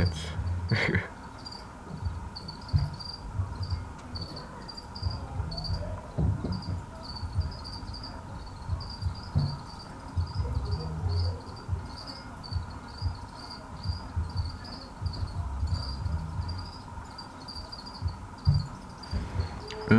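Crickets chirping steadily, about two chirps a second, with irregular low thumps and rumble underneath.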